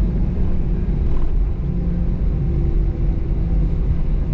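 Cabin noise inside an Airbus A320-214 taxiing: a steady low rumble from its CFM56 engines at taxi power, with faint steady hums over it.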